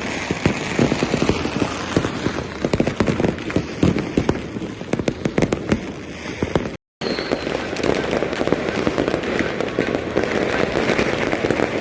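Many fireworks and firecrackers going off together: a dense, unbroken run of pops and bangs. The sound cuts out for a moment a little past the middle, then the popping goes on.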